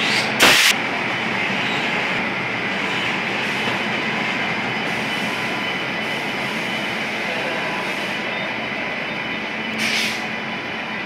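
Electric-locomotive-hauled passenger train departing and rolling past with a steady rumble of wheels on the rails. A short loud burst of noise comes about half a second in, and a brief high-pitched noise about ten seconds in.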